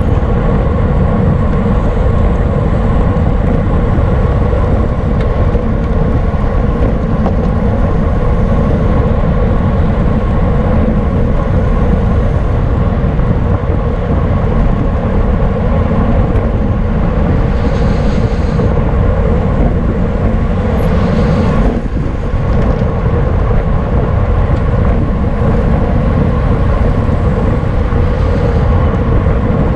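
Steady, loud wind rush buffeting the microphone of a camera riding along on a racing bicycle at speed, with no break in it beyond a brief dip about two-thirds of the way through.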